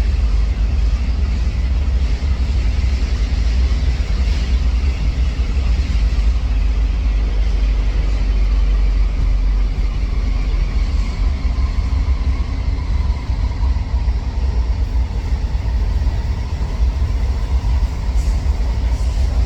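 Train running along the track with a steady, loud low rumble. A faint whine drifts in pitch in the middle.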